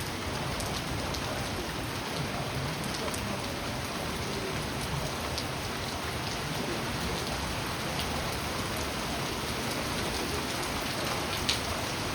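Steady rain falling on a surface, with scattered sharp drop ticks, one louder tick near the end.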